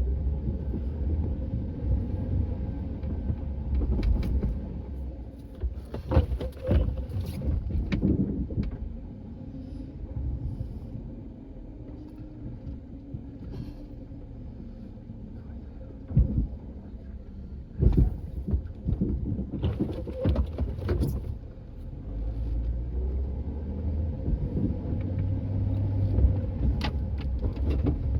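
A vehicle engine running with a low rumble, louder at the start and again in the last few seconds, broken by a series of sharp knocks and clunks.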